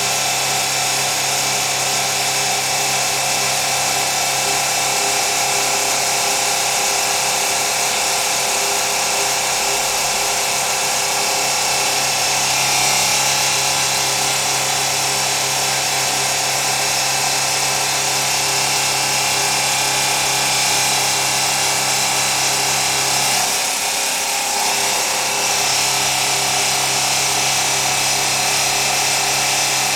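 Factory machinery running steadily: a loud, even mechanical drone with several constant hums and a high hiss. The low hum briefly drops away a little over halfway through, then returns.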